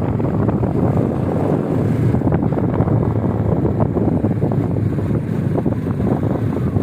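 Wind buffeting the microphone: a loud, steady low rumble with frequent crackles.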